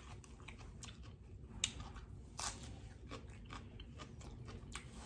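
A person chewing raw fruit and vegetables with the mouth closed: faint, with scattered small crackles and a few sharper crunches, about a second and a half, two and a half and near five seconds in.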